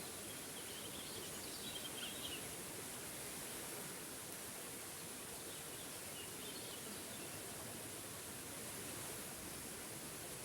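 Forest waterfall rushing steadily, with a few faint bird chirps about a second in and again around six seconds.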